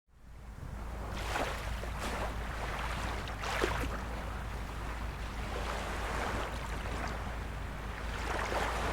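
Small waves of a calm sea washing and splashing, with a few louder splashes, over a steady low rumble of wind on the microphone. The sound fades in from silence at the very start.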